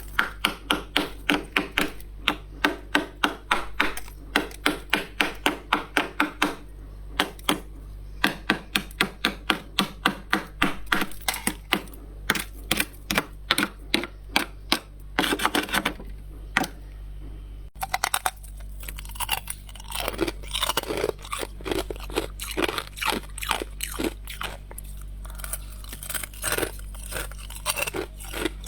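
Frost being scraped off a humidifier in quick, even strokes, about five a second, for roughly the first half. Then it turns into denser, irregular crunching of the frost.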